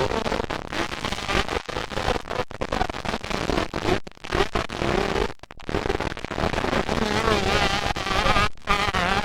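Dirt bike engines buzzing and revving on a motocross track, their pitch wavering up and down as riders work the throttle. The sound cuts out briefly a few times.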